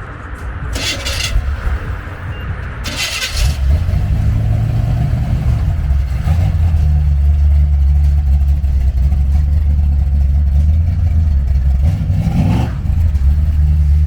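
Car engine running loud and deep, a steady low rumble that sets in about three and a half seconds in, with a short rise in pitch near the end as it is revved.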